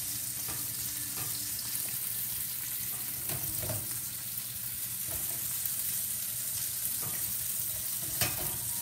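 Chicken thighs and sausages frying in oil in a stainless steel sauté pan: a steady, even sizzle.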